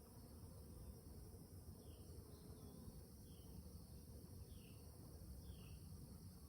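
Faint outdoor ambience: a short, high chirp repeating about every second and a bit, over a steady high hiss and a low rumble.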